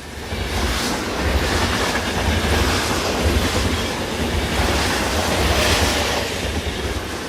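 Train running on the rails: a heavy low rumble and rushing noise that swells in the first second, holds steady, then eases slightly near the end.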